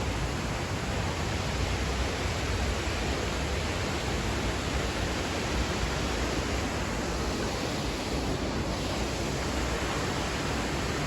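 Steady rushing of fast-flowing water, an even unbroken noise.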